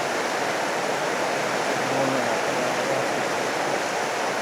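Steady rushing noise of rain and wind, even throughout, with a faint low voice briefly about two seconds in.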